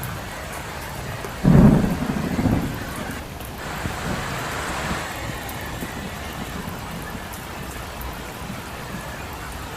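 Steady rain falling on a road, with a sudden loud low rumble of thunder about a second and a half in that dies away within about a second.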